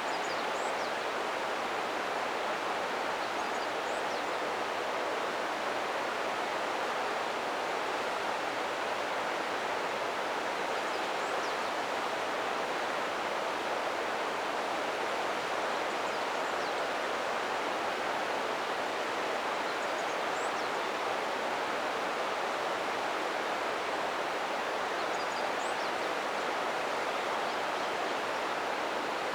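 The Ōta River flowing: a steady, even rush of running water. A few faint, short high chirps are scattered through it.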